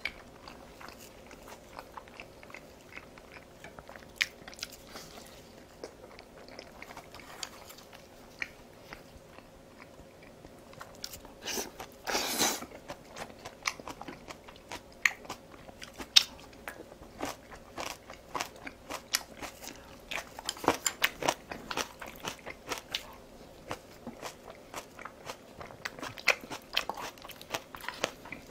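Close-miked eating sounds: chewing and biting, with many short sharp clicks throughout. There is a longer, louder bite about twelve seconds in, and a busy run of chewing about twenty to twenty-two seconds in.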